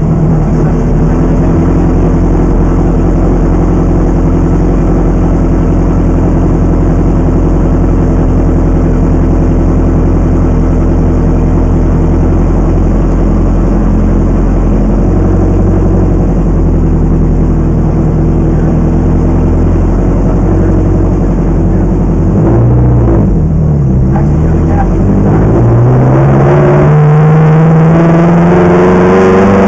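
Ferrari race car engine running loud at a steady pitch, dipping briefly about 23 seconds in, then rising steadily in pitch as the car accelerates.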